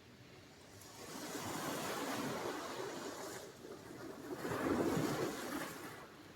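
Sea surf: two waves breaking and washing in, the first swelling about a second in and a louder one near the end, each dying away in a hiss.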